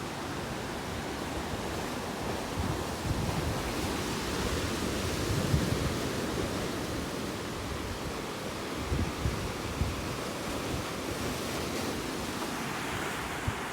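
Ocean surf washing steadily on a rocky shore, with wind buffeting the microphone in low gusts.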